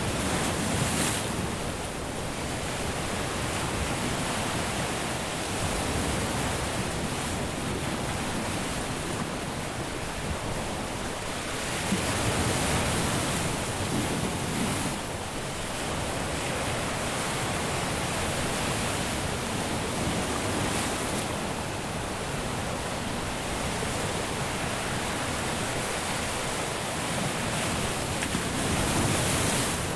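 Caribbean surf breaking on a beach: a steady wash of waves, with a louder wave breaking about a second in, another around twelve seconds in, and one near the end.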